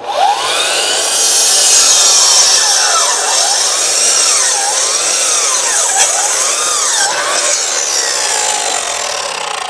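A saw cutting through a wooden fence board. A steady, loud cut with a tone that sweeps up and down about once a second, ending near the end.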